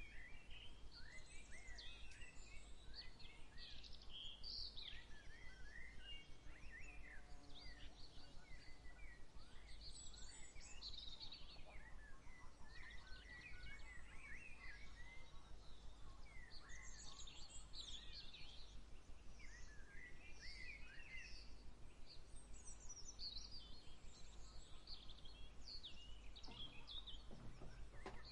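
Several small songbirds chirping and singing in quick, short phrases, over a steady low rumble.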